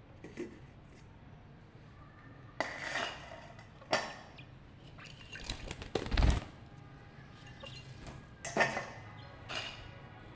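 Irregular clinks and knocks on clay pottery, some ringing briefly, with one heavier thump about six seconds in.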